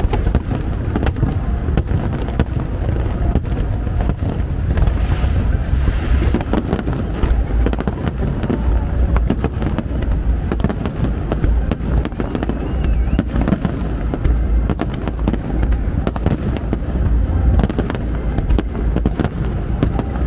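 Fireworks display going off continuously: a dense run of sharp bangs and crackles over a steady low booming rumble.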